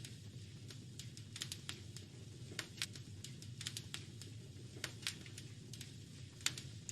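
Wood fire crackling in a fireplace: irregular sharp pops and snaps a few times a second over a low, steady rumble of burning.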